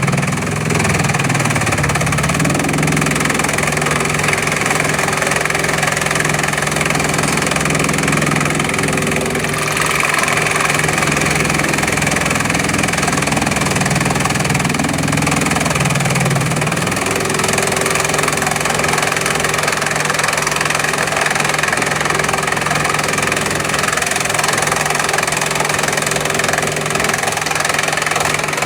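Bamboo chipping machine running: a steady engine drone over constant machinery noise, its hum shifting slightly in pitch a couple of seconds in and again partway through.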